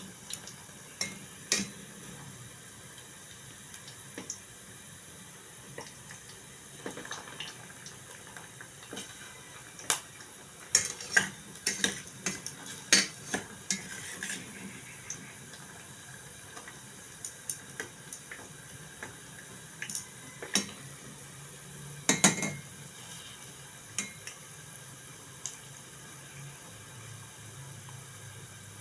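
Scattered clinks and clatter of dishes and cutlery, with a run of clinks about a third of the way in and a louder clatter about two-thirds in, over a steady low hiss.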